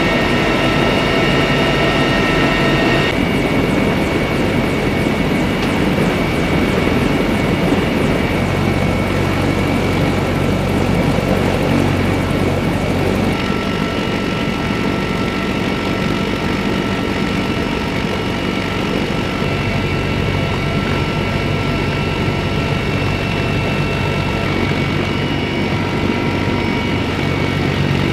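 CH-53E Super Stallion heavy-lift helicopter running, its three turboshaft engines giving a steady high whine over the rotor's dense rumble. The sound changes abruptly about three seconds in and again about thirteen seconds in.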